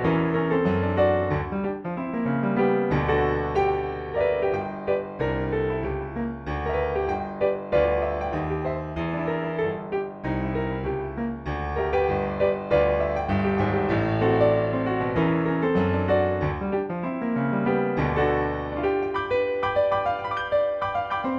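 Piano playing barrelhouse blues: a steady, repeating bass pattern in the low notes under busy right-hand figures higher up.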